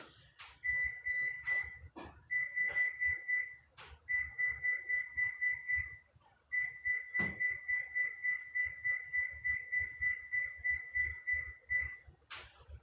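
Electronic beeper sounding rapid, even beeps, about four a second, in four runs broken by short pauses, the longest run near the end.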